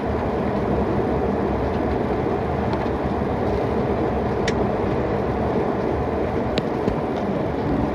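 Steady airliner cabin noise: jet engines and rushing air, with a couple of faint clicks about halfway through.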